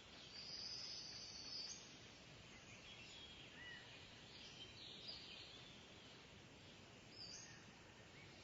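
Kingfisher calling: a high, shrill call lasting about a second and a half near the start, then scattered short chirps, over a steady faint hiss of background noise.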